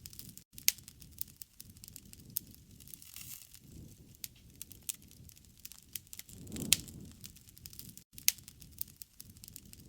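Wood campfire crackling, with frequent sharp pops and snaps over a soft low rumble that swells about two-thirds of the way through.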